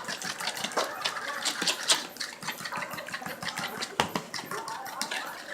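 A utensil beating egg into cream of mushroom soup in a bowl: rapid, uneven clicking and scraping against the bowl.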